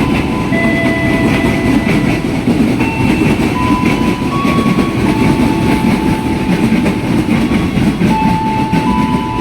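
Commuter train running along the track: a loud, dense rumble with thin, whining tones at shifting pitches that each sound for about a second and come and go.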